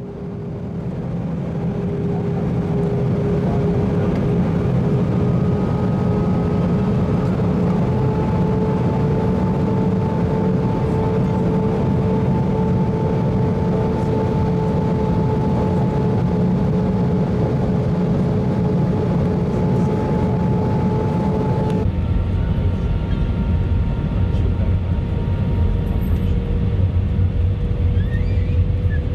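Airbus A319 airliner's jet engines and airflow heard from inside the cabin: a steady rumble with several steady tones, fading in at the start. It changes abruptly about two thirds of the way through, with the tones shifting and a deeper rumble.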